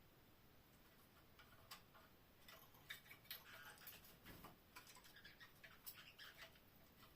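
Faint, irregular small clicks and ticks from pet canaries moving about their cage, busiest in the middle.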